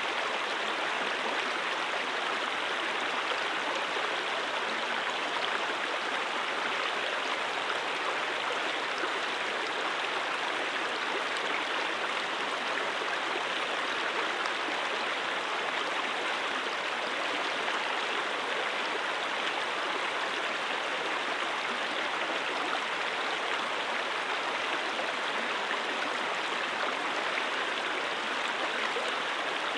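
Mountain stream water flowing steadily over rocks, a constant rushing and babbling with no breaks.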